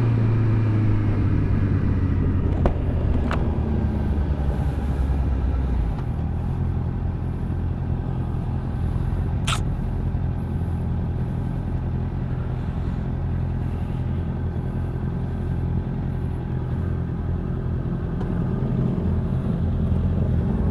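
Motorcycle engine running while riding, with wind rumble. Its note falls over the first few seconds as the bike slows, then it runs on steadily, with one sharp click about halfway through.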